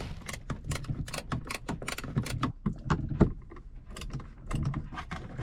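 Quick, irregular clicking and clattering of hand tools and fittings as a side panel in a sailboat's cabin is taken off, with one sharper knock a little past the middle.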